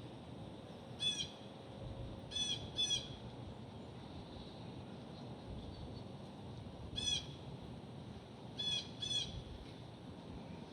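A bird giving short, harsh calls, six in all and some in quick pairs, over a steady low background rumble.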